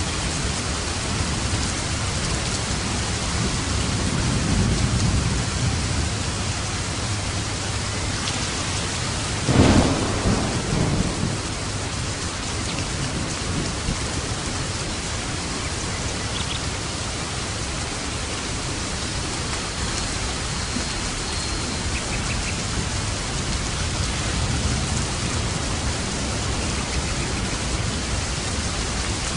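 Steady rain pouring down during a thunderstorm, with low rolling thunder swelling about four seconds in and a sharper, louder thunder crack and rumble about ten seconds in.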